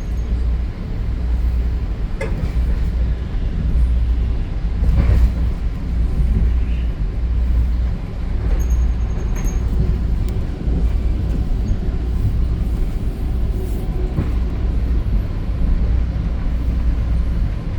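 Commuter train rolling along at speed, heard inside the passenger car: a steady low rumble of wheels on rail, with a few faint knocks a few seconds apart.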